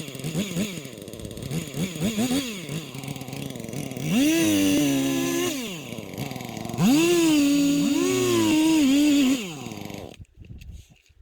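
Small two-stroke engine revved in quick blips, then held at high revs twice for a few seconds each, the pitch wavering slightly under load. It stops abruptly near the end.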